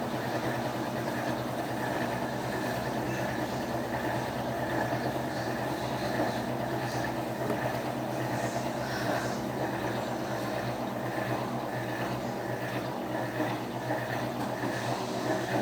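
Electrolux Turbo Economia 12 kg top-load washing machine running its final spin: a steady drone and hum from the spinning drum and motor. A single sharp knock comes right at the end.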